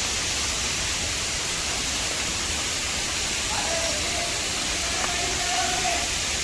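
Steady rush of falling water from the Dudhsagar waterfall, with a faint voice heard through it about halfway through.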